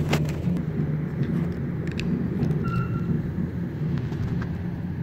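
Steady low background rumble, with a few small plastic clicks as a telephone plug is handled and pushed into a wall socket.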